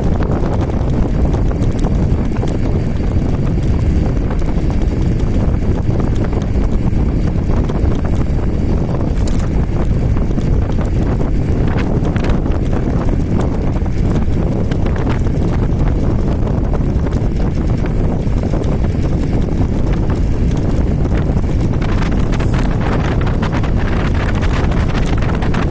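Wind buffeting the microphone on a moving electric scooter, a steady low rumble with fluttering gusts and no breaks.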